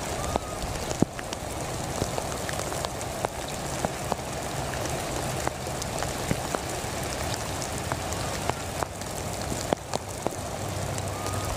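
Heavy rain falling steadily, with many sharp single drops hitting close by.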